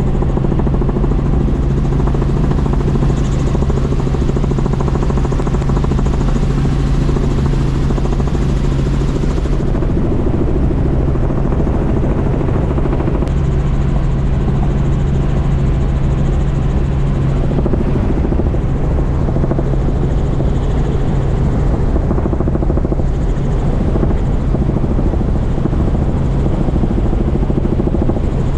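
Small tour helicopter in flight: a steady, loud engine and rotor drone with a low hum.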